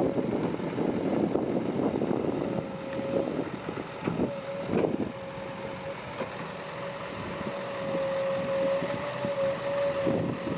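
Heavy diesel earthmoving machinery running. A dense rumbling noise eases after about two seconds, and a steady whine then carries on, with a few brief louder knocks a little before halfway.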